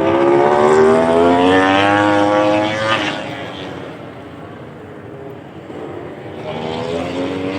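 MotoGP racing motorcycle engine accelerating hard, its pitch climbing steadily for about three seconds before fading away; a second bike's engine comes in near the end, also rising in pitch.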